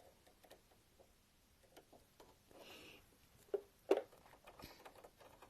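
Sewing machine presser foot being changed by hand: faint taps and a short rustle, then two sharp clicks a little over halfway through as the small walking foot is fitted.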